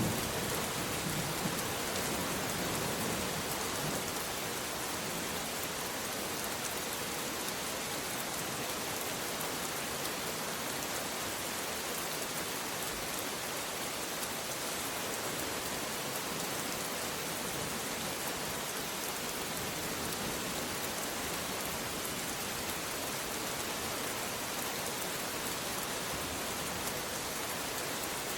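Steady heavy rain falling on a surface. A low thunder rumble dies away in the first couple of seconds.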